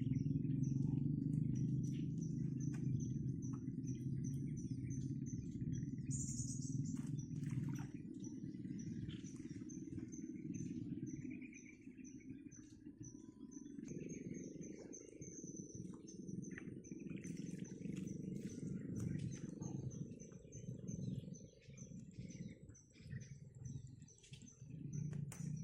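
A high-pitched chirp repeating evenly, about two to three times a second, over a steady low rumble of outdoor background noise, with a few short clicks.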